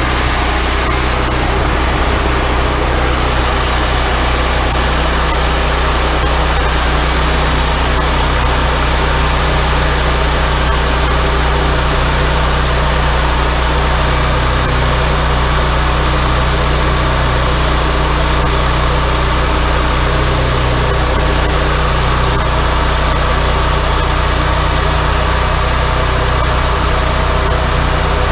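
Wood-Mizer LT40 hydraulic sawmill running steadily, its engine holding an even speed with no let-up.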